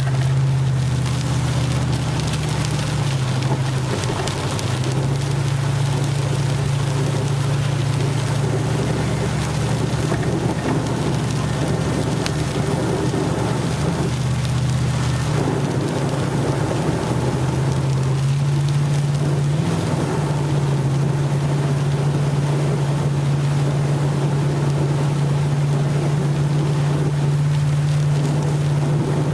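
A truck driving in heavy rain: rain beating on the vehicle and water hissing under the tyres over a steady engine hum whose pitch shifts a few times as the speed changes.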